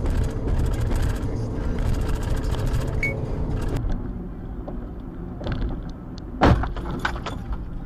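Car on the move with steady engine and road rumble and a faint hum. About halfway through it gives way to a quieter rumble, broken by one loud sudden thump a little before the end and a few lighter knocks.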